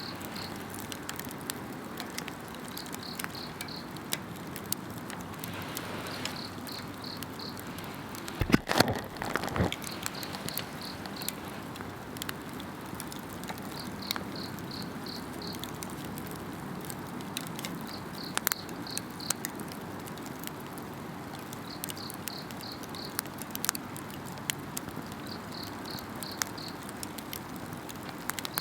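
Wood campfire crackling, with scattered sharp pops and a brief cluster of louder snaps about nine seconds in. Insects call around it, one giving a short high trill of several quick pulses that repeats every three to four seconds.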